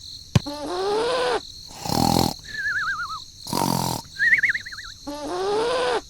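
A string of cartoon-style sound effects: a sharp click, then swooping tones that glide up and fall away, two short noisy bursts and two wobbling, warbling whistle tones, one after another.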